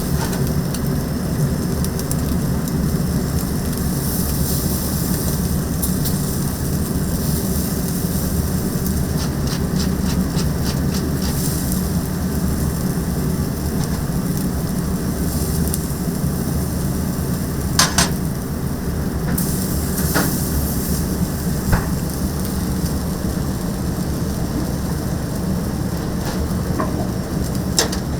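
Chicken sizzling steadily as it cooks, over a low hum, with a few sharp clinks or taps in the second half.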